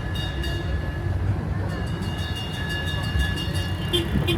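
Riding aboard a small tourist road train in motion: a steady low rumble of its engine and wheels, with thin high whining tones that fade in and out, and a few sharp clicks near the end.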